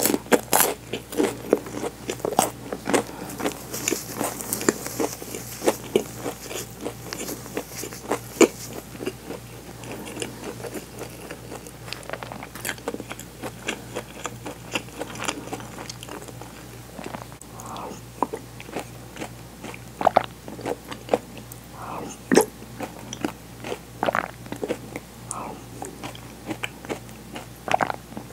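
Crunchy toasted sandwich bread being chewed close to the microphone: many crisp crunches, dense at first and thinning to scattered crunches in the second half.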